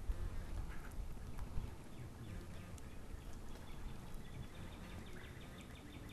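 Faint outdoor ambience with a low rumble, and a rapid rattling animal call of about eight ticks a second starting about two seconds in.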